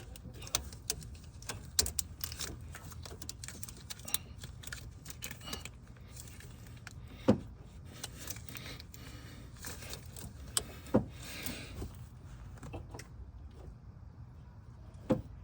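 Metal hand tools clinking and rattling against metal parts, with a few sharp knocks spread through.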